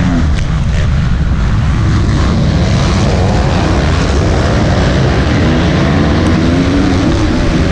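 Motocross bike engines running loud, their pitch wavering up and down as the throttle is worked.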